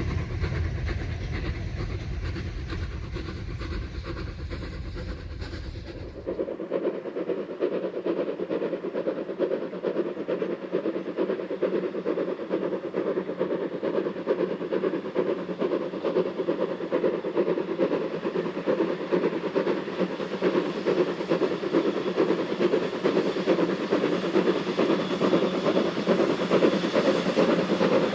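Train running on the railway, with the sound of a working steam locomotive. A deep rumble gives way abruptly about six seconds in to a steady, dense rail and exhaust noise that builds slightly toward the end.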